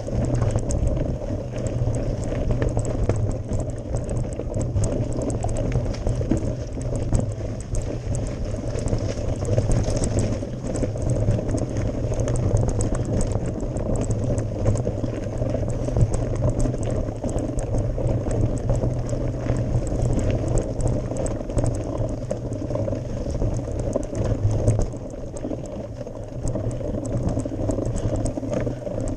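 Mountain bike being ridden up a gravel forest road: a steady rumble of tyres on gravel with a constant patter of small clicks and rattles from stones and the bike.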